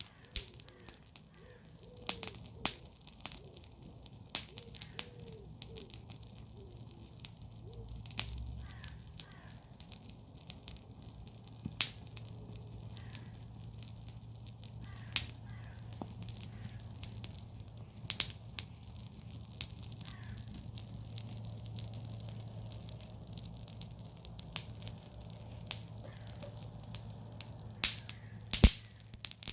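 Bonfire of garden waste crackling, with irregular sharp pops of burning wood and leaves. Crows caw now and then in the background.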